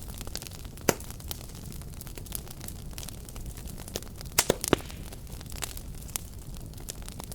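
Fireplace fire crackling and popping over a steady low rumble of burning flames. There is a sharp pop about a second in and a quick cluster of loud pops just past the middle.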